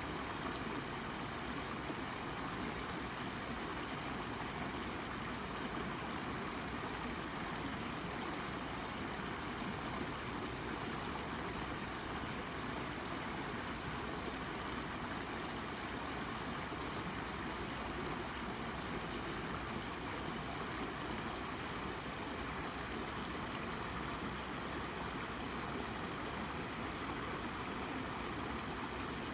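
A small brook babbling steadily as it runs over rocks.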